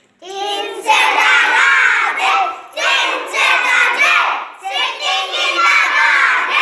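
A class of children reciting a poem loudly in unison, chanting it in phrases with short pauses between them. The chorus begins abruptly just after the start.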